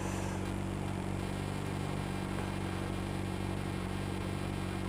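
Triumph Explorer motorcycle engine idling, a steady low buzz.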